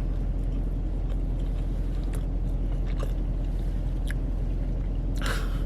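Steady low hum inside a car cabin, from the engine and air-conditioning fan, with a few faint clicks and a short breathy sound near the end.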